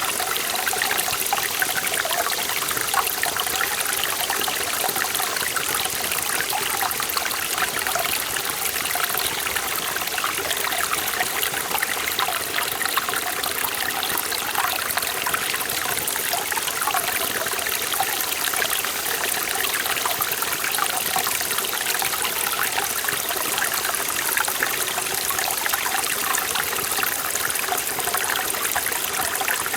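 Mountain stream in a forest valley, water running and trickling steadily over rocks with a bright, splashing texture and no let-up.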